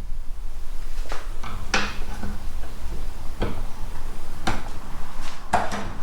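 About six irregular sharp knocks and clacks of a metal door hinge being fitted into a tight chiselled rebate in a wooden door.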